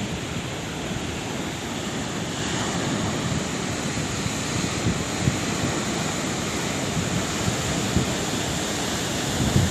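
Sea waves breaking and washing on the shore: a steady rushing surf that swells a little about two and a half seconds in.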